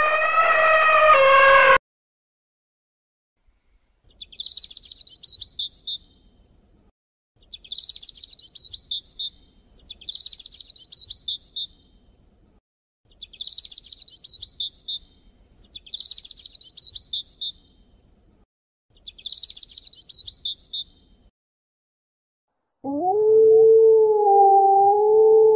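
The tail of an elephant's trumpet call ends in the first two seconds. After a pause, a bird chirps in six short bursts of rapid high twittering, each under two seconds long. Near the end a wolf begins a long, steady howl.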